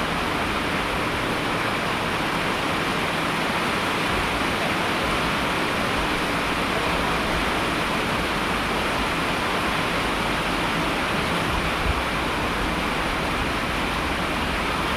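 Steady heavy rain, an even hiss of falling water with no breaks or changes.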